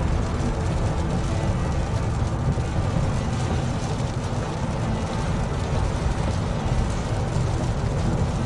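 Steady low road rumble of a car driving on a freeway, heard from inside the cabin.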